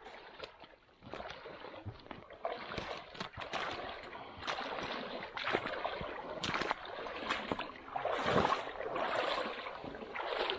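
Irregular sloshing and splashing of water mixed with brushing swishes and scattered sharp cracks, as of movement through swamp.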